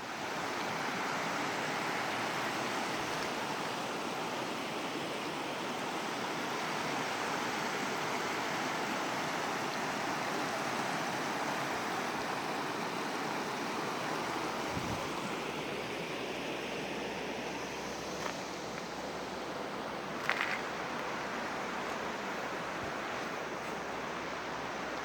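Mountain river rushing, a steady, even noise of flowing water.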